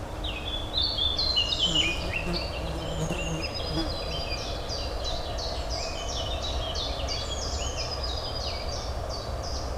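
Dense chorus of songbirds chirping, many quick downward-sweeping notes overlapping, over a steady low city hum.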